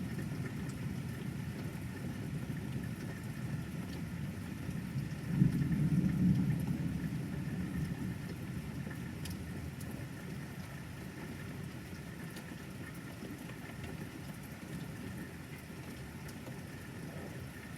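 Rolling thunder rumbling, with a louder peal about five seconds in that slowly dies away, over light rain.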